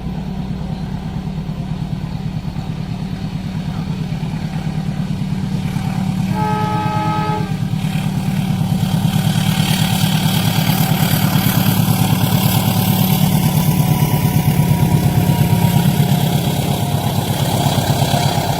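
Train coming through a level crossing: a diesel locomotive's engine drone grows louder, the horn sounds once for about a second, then the rumble and hiss of wheels on the rails build as the train passes.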